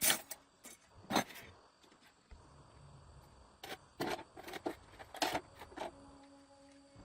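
Irregular short clinks and scrapes of hand tools and metal engine parts being handled, with a quiet gap about two to three seconds in and a quick cluster after it.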